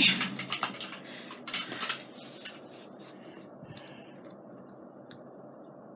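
Small hard tools clinking and clattering as a knife is picked out from among craft supplies, busiest in the first two seconds, then a few scattered light clicks.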